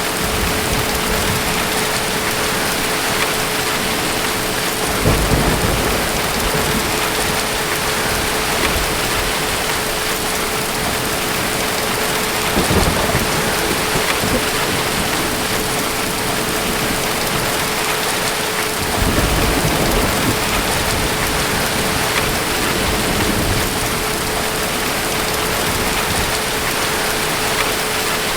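Steady rain with distant thunder, its low rumbles rising three times, about five, twelve and nineteen seconds in.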